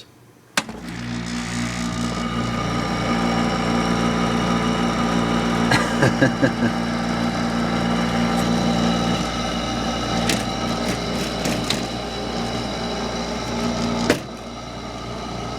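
Hampton Bay 8,000 BTU window air conditioner switched on with a click, its motor and fan running with a steady hum and a few clicks and rattles. About fourteen seconds in, another sharp click and the hum drops lower. The owner judges the fan motor noisy and the unit shot.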